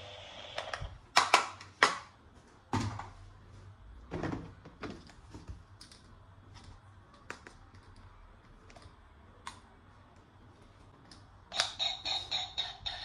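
Irregular clicks, taps and light knocks of plastic toy-gun parts being handled. Near the end comes a quick rattling run of pulses.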